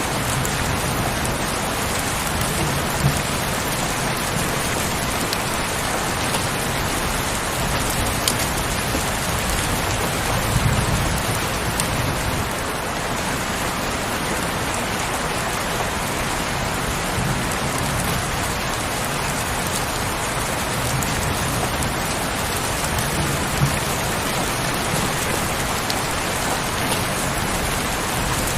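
Heavy, steady rain, a dense hiss with sharp individual drops tapping here and there. A brief low rumble swells about ten seconds in.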